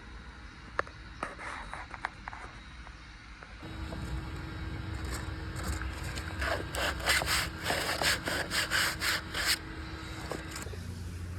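Hand scraping or scrubbing on a car's interior or body panel, repeated strokes about three a second that grow louder in the middle and stop near the end, after a few faint clicks of handling. The work is stripping old adhesive glue off the panels.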